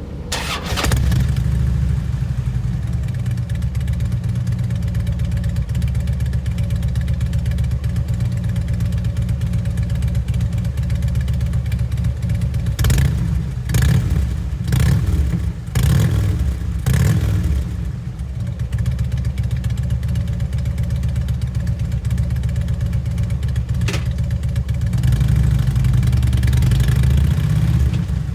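2009 Harley-Davidson Electra Glide Classic's Twin Cam 96 V-twin running through Vance & Hines Eliminator 400 slip-on mufflers. It idles with its loping beat, and there is a run of quick throttle blips around the middle before it settles back to idle.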